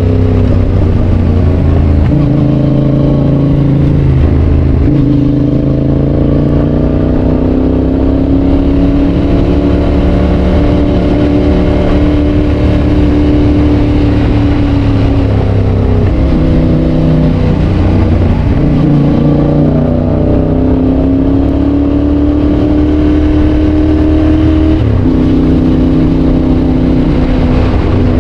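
Yamaha Tracer 7's 689 cc parallel-twin engine through a GPR aftermarket exhaust, running loud under way; its note climbs and falls with the throttle and steps in pitch several times as gears are changed.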